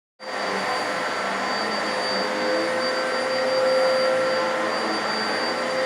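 Vacuum cleaner running steadily, a constant whirring motor hum with a steady high whine.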